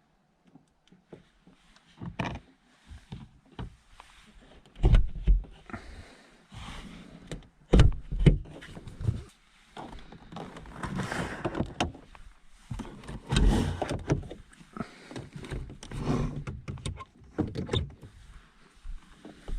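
Objects being handled inside a car: a run of knocks and thumps, the loudest about five and eight seconds in, with rustling and scraping in between.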